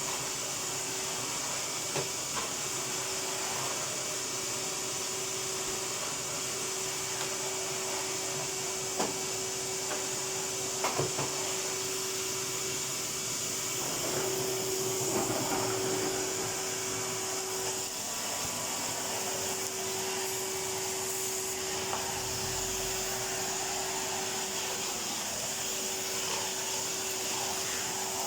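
Vacuum cleaner running steadily, with an even whine and airy rush, and a few light knocks and clicks from the cleaner being pushed about.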